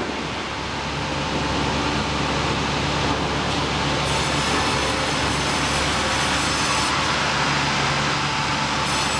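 Sawmill machinery running steadily, a continuous mechanical noise with a low hum; a higher hiss joins about four seconds in.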